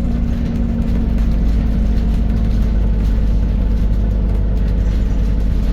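Scania N280UD double-decker bus running steadily on the move, heard from on board: a constant low engine and drivetrain rumble.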